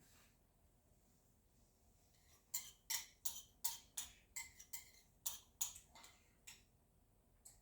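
A run of about a dozen short, sharp clicks or taps, irregular at two to three a second, lasting about four seconds.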